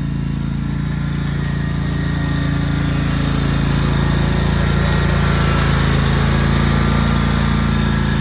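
Riding lawn mower engine running steadily under load, getting a little louder in the middle.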